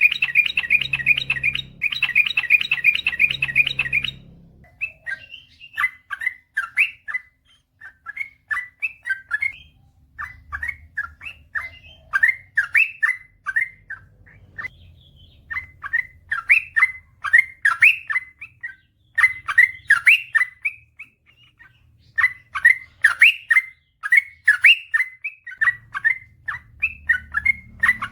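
Yellow-vented bulbul (trucukan) singing a long, rapid song: a dense, fast chatter for the first few seconds, then run after run of short bubbly, warbling notes with brief pauses between phrases. A low hum sits under the opening and the end.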